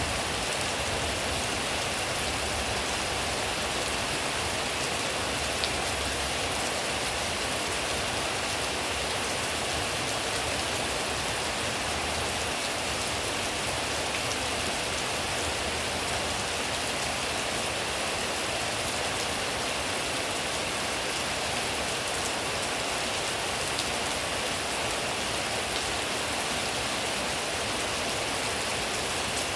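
Steady rain falling, a constant hiss of drops on surfaces with occasional faint individual drop ticks.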